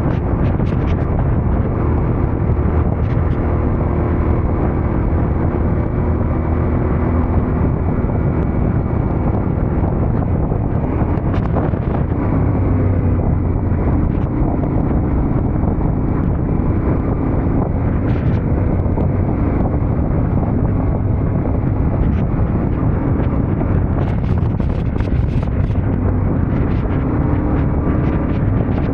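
Yamaha Ténéré 700's parallel-twin engine running steadily under way, with wind buffeting the microphone.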